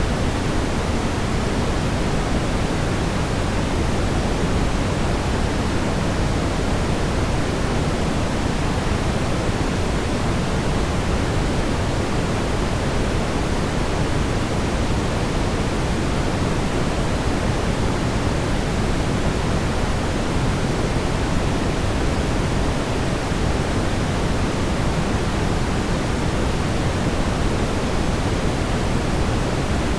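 Steady brown noise: an even, deep rumbling hiss, strongest in the low end, with no change.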